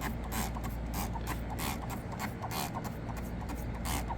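Trigger spray bottle of bleach cleaner being squirted repeatedly onto dirty patio furniture: an irregular run of short hissing squirts, a few a second, over a steady low hum.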